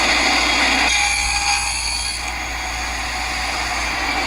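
Table saw spinning a dado head, a steady machine noise with a constant high whine, while cutting a 3/4-inch dado in a board. The sound thins a little about a second in.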